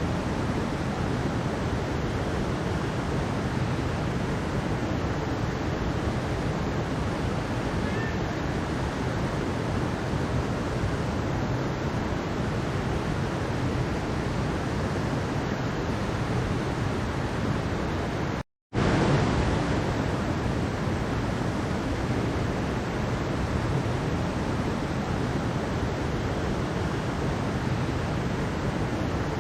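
Mountain stream water rushing steadily over rocks, an even hiss and rumble. About eighteen seconds in it cuts out for a fraction of a second and resumes.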